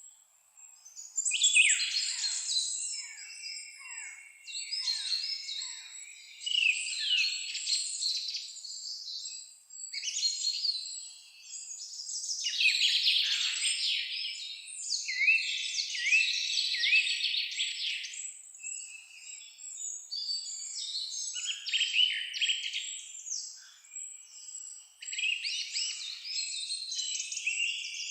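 Songbirds singing: several birds' quick chirps, trills and whistles overlapping in bursts a few seconds long, with brief lulls between them.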